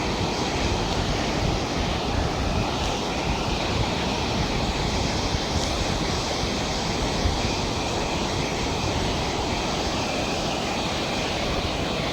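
Steady rushing noise with no separate events.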